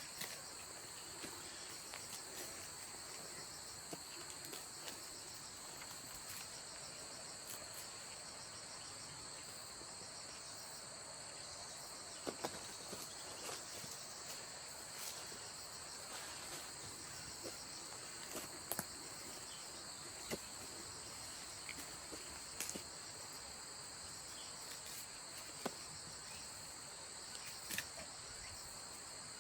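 Steady high-pitched chirring of autumn insects, with scattered small clicks and rustles over it.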